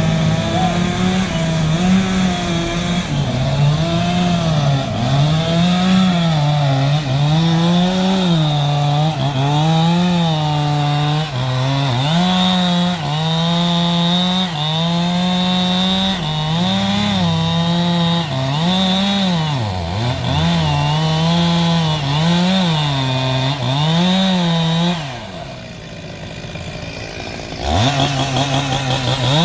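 Chainsaw cutting wood, its engine pitch rising and falling about once a second as the load comes and goes. Near the end it drops to a quieter, lower note for a couple of seconds, then revs back up sharply.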